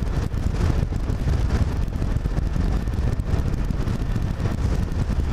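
Wind buffeting the microphone over the steady low rumble of a moving road vehicle.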